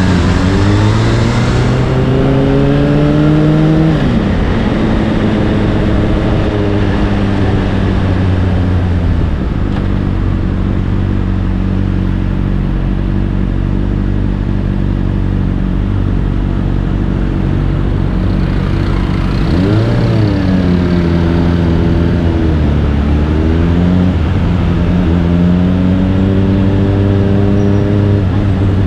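Honda CBR600RR inline-four with an Akrapovic exhaust, under way: the revs climb for the first few seconds, then drop sharply and settle into steady cruising at lower revs. About two-thirds through there is a quick rise and the revs fall away, then they climb again near the end.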